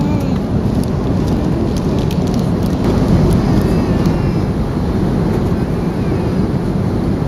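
Steady low rumble of an airliner's cabin noise, the engines and rushing air, running loud and even.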